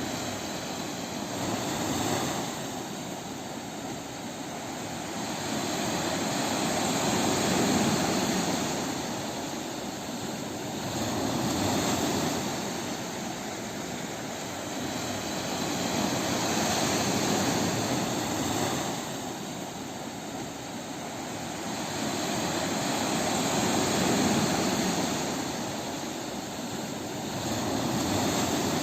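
Ocean surf breaking on a beach: a continuous wash of waves that swells and fades every few seconds.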